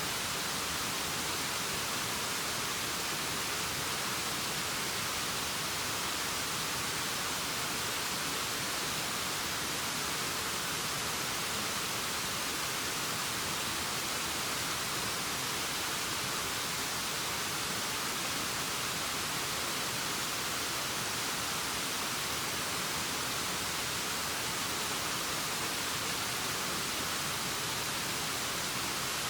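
Waterfall: a steady, unbroken rush of falling water, bright and hissy.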